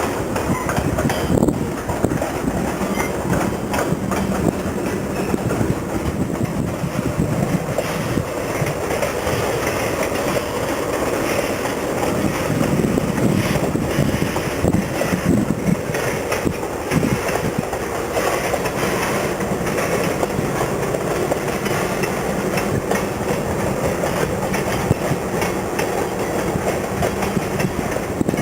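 Freight train cars rolling past, steel wheels clattering steadily over the rail joints with a continuous low rumble.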